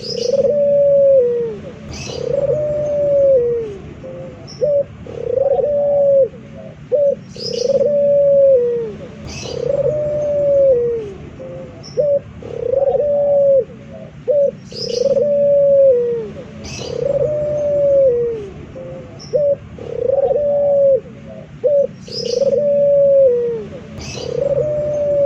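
Male puter (Barbary dove) cooing steadily: repeated phrases of arched coos, each about a second long and falling in pitch at the end, with short clipped notes between them.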